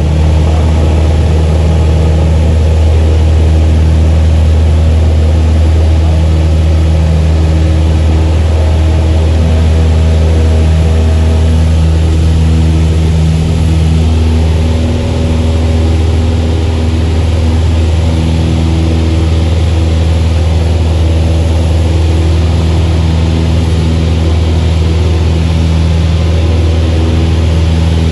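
Engine running steadily with a loud, even low hum and a few steady tones above it, cutting in suddenly at the start.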